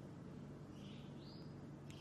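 A bird chirping faintly twice over a low steady hum, with a short sharp click near the end.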